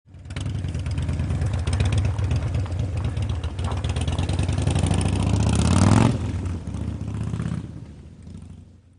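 Motorcycle engine accelerating, its pitch climbing for about six seconds, then dropping suddenly as the throttle comes off and fading away.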